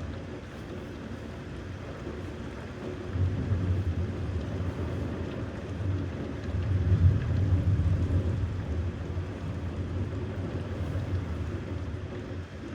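Low thunder rumbling over a steady hiss of rain. The rumble comes in about three seconds in, swells around the middle and fades away near the end.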